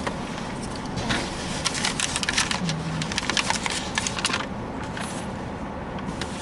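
Crinkling and rustling of fast-food takeout packaging as a paper bag and sandwich wrapper are opened. It is a quick run of crackles lasting about three seconds, starting about a second in.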